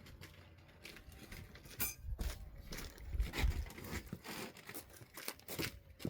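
Irregular knocks, scrapes and crinkling rustles from hands-on construction work, with a few heavier thumps about two to three and a half seconds in.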